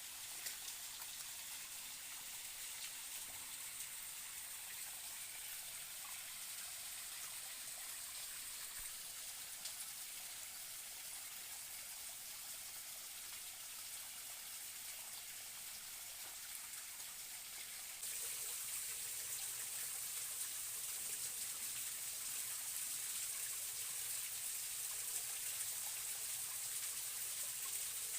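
Stream water running steadily, a continuous rushing hiss; it jumps louder about two-thirds of the way through.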